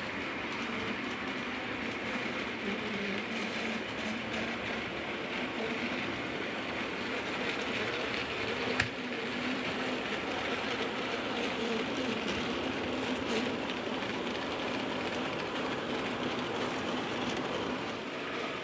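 Model trains running around a layout: a steady whir of small motors and wheels rolling on the track, with one sharp click about nine seconds in.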